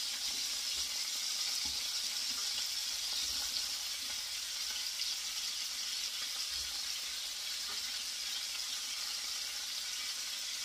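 Chicken thighs frying in hot grease in a stainless steel skillet, a steady sizzling hiss, as sliced onions are dropped in around them.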